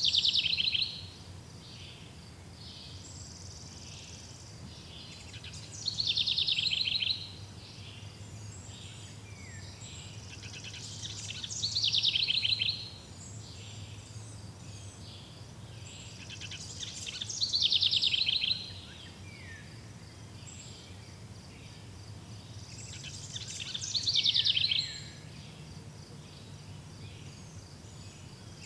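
A songbird singing the same short, falling trilled phrase again and again, about once every six seconds, each phrase lasting a second or so. Between phrases a steady low hum runs underneath.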